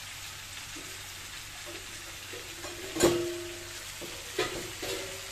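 Mud crabs frying in black-pepper seasoning in a wok, a steady sizzle. About three seconds in comes one sharp clank that rings on briefly, followed by two lighter clinks.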